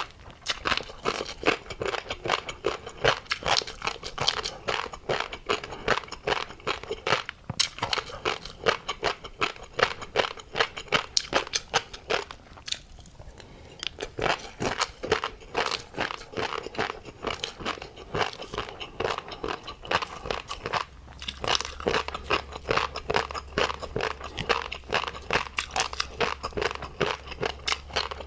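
Close-miked chewing of tobiko (flying fish roe): a dense run of small crunchy pops and clicks, several a second, with a short pause about halfway through.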